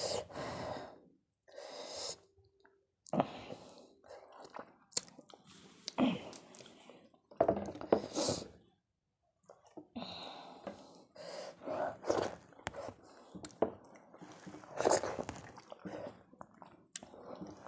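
Eating soft khichuri by hand: wet chewing and mouth clicks in irregular bursts, with a short pause about nine seconds in.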